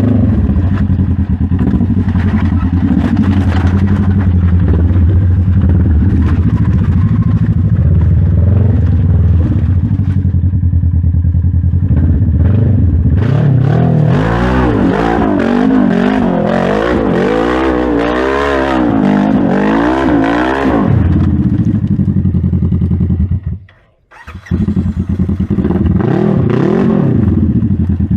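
Polaris RZR RS1's twin-cylinder engine, loud, running steadily at first and then revving hard with its pitch swinging up and down over and over as the side-by-side works its way up a steep climb. The sound drops out for under a second about three-quarters of the way through, then the revving resumes.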